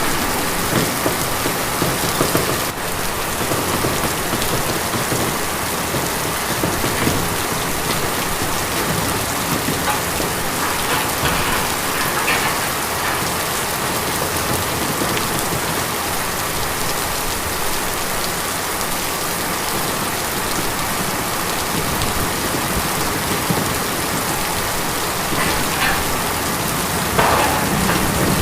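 Steady rain falling on tin, with a few brief louder spells of heavier drops.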